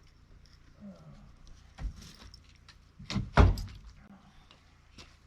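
Knocks and thuds from demolition work in a camper: one thud about two seconds in, then a louder double thud a little past three seconds.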